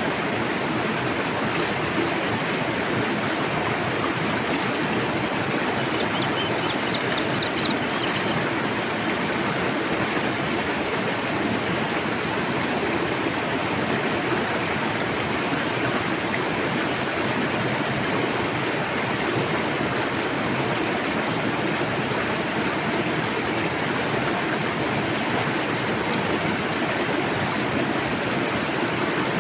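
A fast-flowing river rushing steadily over rocks, an even wash of water noise. About six seconds in, a bird gives a brief run of faint high chirps over it.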